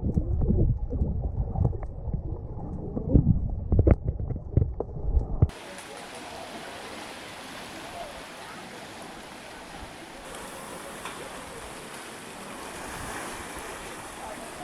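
Muffled low rumbling with several loud thumps, then a sudden cut about five and a half seconds in to a steady hiss of sea waves and wind.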